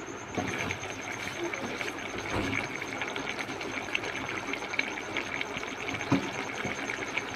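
Mutton pieces and yogurt masala sizzling and crackling in hot oil in a wok as the yogurt's water cooks off during bhuna. There is one louder knock about six seconds in.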